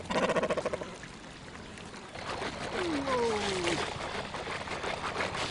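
Water pouring and trickling, with a short, rapidly pulsing call in the first second and a falling, drawn-out call about three seconds in.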